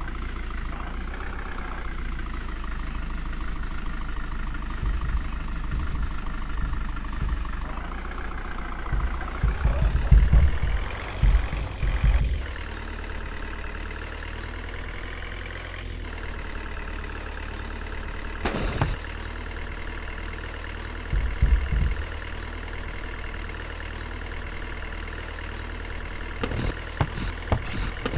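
Vehicle engine running at idle, revved up several times around the middle, with a few short sharp knocks or thumps later on.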